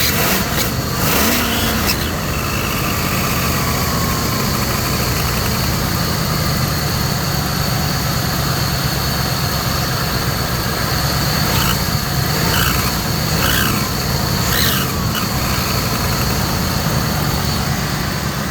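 Ford 4.6 V8 running with an exhaust leak at the manifold gasket: a steady high whine over the engine, with short shrieks that sweep up and down, one near the start and about four in the second half. The leak comes from a broken exhaust manifold stud and a warped manifold, made worse by a clogged catalytic converter whose back pressure blows exhaust across the gasket.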